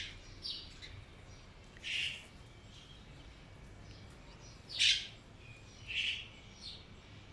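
A bird giving short, sharp chirps, one every second or two, about five in all, the loudest about five seconds in.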